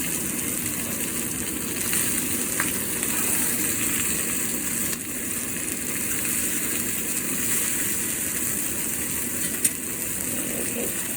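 Marinated chicken frying and sizzling steadily in a hot cast iron pan, the chicken starting to burn and smoke. A single sharp click about ten seconds in.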